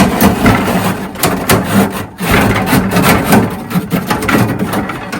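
Frozen food packets and containers knocking, scraping and rustling as a freezer is emptied into a chilly bin, a dense clatter that starts and stops abruptly.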